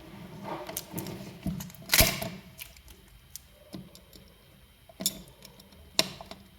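Irregular clicks and taps of small tools and parts being handled on a repair bench, the loudest knock about two seconds in and two sharper taps near the end.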